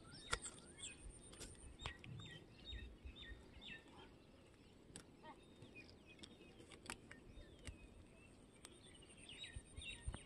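Faint birdsong: bursts of short repeated chirps, clustered about a second in and again near the end, with a high, thin pulsing trill at the start and near the end.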